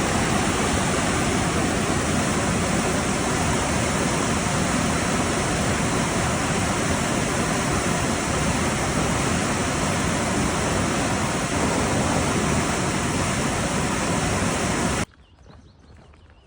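Loud, steady rush of fast-flowing water, cutting off suddenly about 15 seconds in.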